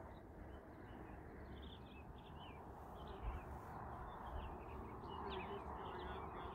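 Small birds chirping faintly, many short high chirps in quick succession, over a low rumble.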